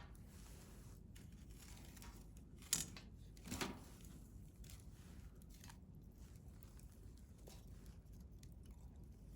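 Wood fire burning in a stainless steel fire grill: a soft steady rumble with scattered small crackles, and two louder snaps of the wood under three and a half seconds in, under a second apart.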